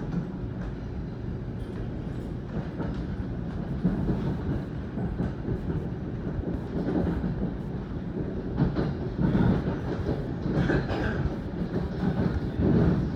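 NJ Transit commuter train running, heard from inside a passenger car: a steady low rumble of wheels on the rails with irregular knocks. It grows louder and busier in the second half.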